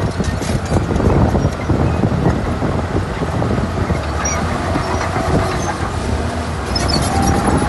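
Shantui crawler bulldozer's diesel engine running steadily under a constant clatter of its steel tracks, with short high squeaks from the track links near the end.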